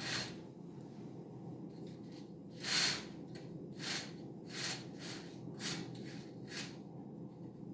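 About seven short, soft swishing sounds at uneven intervals, the loudest a little under three seconds in, over a low steady hum.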